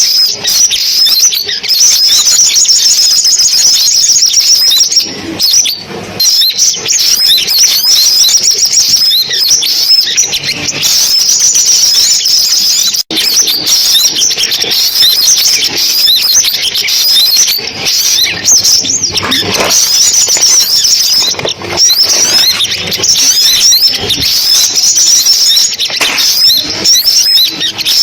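Sunbird song played back as a lure recording: a dense, continuous stream of rapid, high-pitched chirps and trills, with a momentary dropout about thirteen seconds in.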